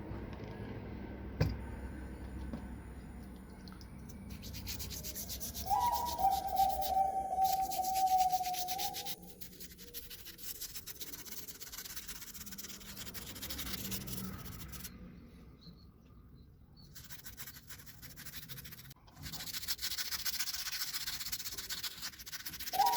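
Rusty metal blade being scrubbed or sanded by hand: fast rubbing strokes in two stretches with a quieter pause between. A steady tone is held for a few seconds early in the first stretch.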